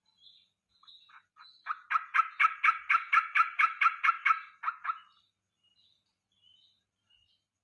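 Yellow-vented bulbul (cerukcuk) calls in a rapid chattering burst of about fifteen notes, roughly five a second, lasting about three seconds, with faint high chirps before and after.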